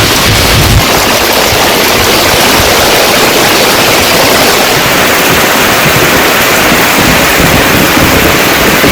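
Heavy monsoon rain falling, a loud steady hiss.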